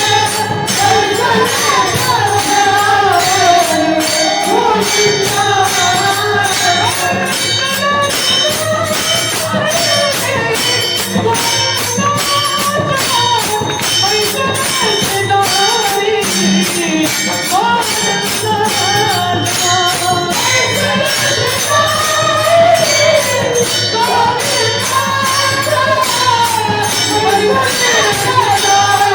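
Warkari devotional singing: a voice sings a winding melody over a steady beat of small hand cymbals (taal).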